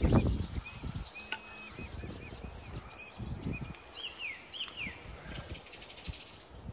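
A songbird singing: a string of short, high, arched notes, then a few quick falling whistles about four seconds in. Under it, leaf litter rustles as a gloved hand handles it, loudest right at the start.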